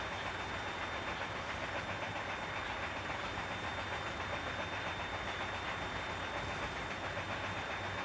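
Container truck's diesel engine droning steadily with road and rattle noise inside the cab while driving, with a faint steady high whine.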